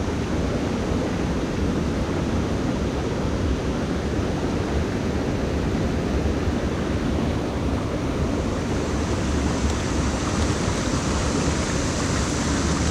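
Steady rushing of a mountain stream's flowing water, an even noise without breaks.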